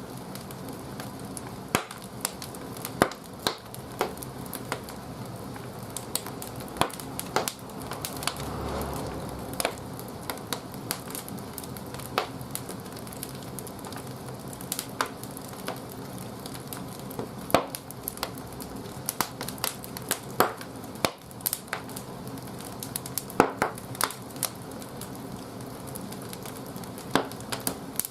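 Firewood burning in a wood-fired boiler's firebox: a steady low rush of fire with irregular sharp crackles and pops throughout, swelling briefly about a third of the way in.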